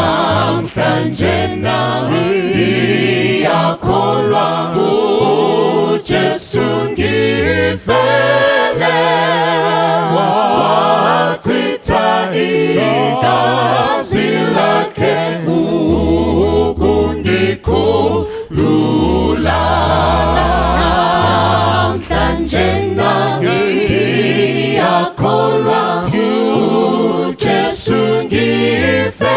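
A group of voices singing a slow Zulu hymn in several-part harmony, with low bass notes held and changing in steps.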